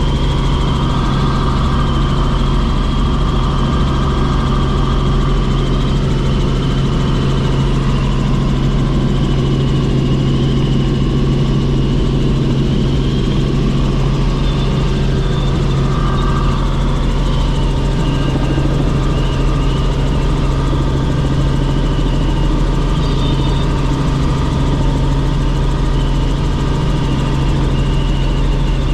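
Helicopter engine and rotor noise running steadily and loudly, a constant low hum with a thin high whine above it.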